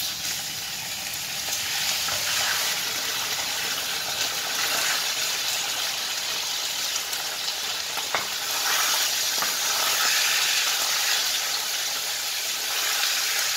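Cubed chicken breast sizzling as it drops into hot oil in a wok. The sizzle starts suddenly and keeps frying steadily while it is stirred with a spatula. A single sharp click comes about eight seconds in.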